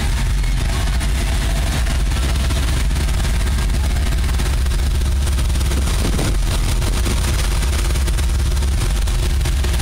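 Ford 400 (6.6 L) V8 truck engine running loudly and steadily, its exhaust pulses coming fast and even.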